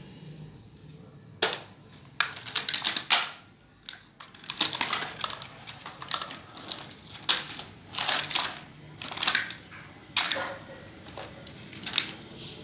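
Small plastic toys being handled, making irregular clicks, rattles and scrapes in short bursts.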